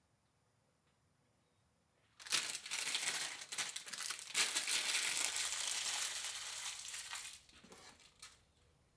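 Crinkling and rustling, like material being crumpled or handled, starting suddenly about two seconds in, running for about five seconds, then dying away in a few last crackles.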